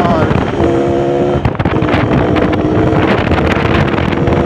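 Yamaha RX-King's single-cylinder two-stroke engine running under way, with wind buffeting the microphone. The engine note drops at the start, breaks briefly about one and a half seconds in, then holds steady.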